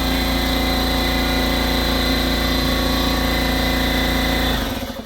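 Coleman 523 gasoline stove burner running loud and steady with a whistling tone after flaring up, then shut off abruptly near the end.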